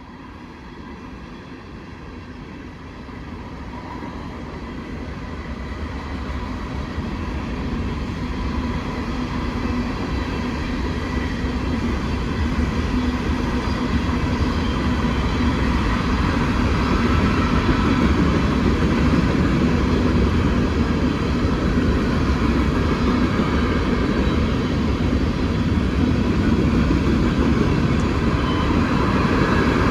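Freight train rolling past on the rails, its rumble growing steadily louder over the first fifteen seconds or so as it approaches, then holding at a steady loud level.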